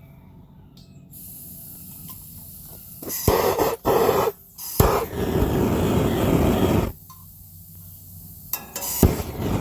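Outdoor propane cooker burner being tried after its clogged jet was cleared with a needle: a few clicks, then gas rushing and hissing for about three and a half seconds before cutting off suddenly, and another click near the end.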